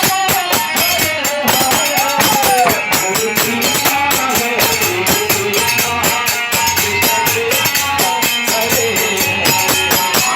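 Devotional kirtan: a voice singing a melody over steady held notes, with fast, continuous jingling and rattling hand percussion keeping the beat.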